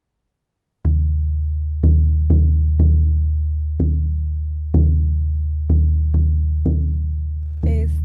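Caja, the Andean frame drum, beaten in a slow rhythm that starts just under a second in. About ten strikes fall roughly a second apart with quicker pairs between, and each leaves a deep booming ring that fades.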